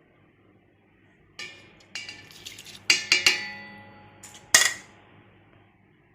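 Metal cooking pot and utensils clinking and knocking against each other, about six strikes, several of them ringing briefly, with the loudest knock near the end.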